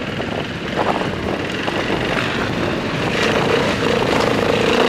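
Enduro motorcycle engines running; about three seconds in, one engine settles into a steady, held drone.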